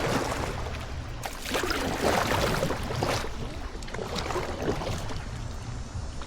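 Kayak paddle strokes splashing in the water, several strokes roughly a second apart, over a steady low rumble.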